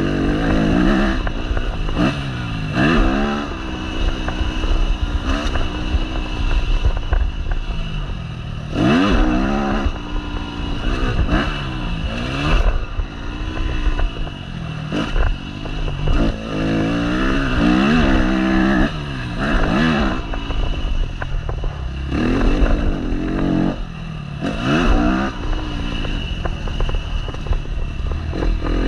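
Yamaha motocross bike's engine heard from an onboard camera, revving up and dropping back again and again as the throttle is opened and closed.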